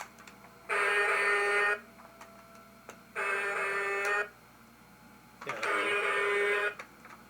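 Electronic sound effect from a 1996 Hess Emergency Truck toy fire truck: a steady, buzzy horn-like tone about a second long, sounding three times at an even pace of roughly one every two and a half seconds. It keeps going after the toy's main switch is turned off, because a second switch controls the sound.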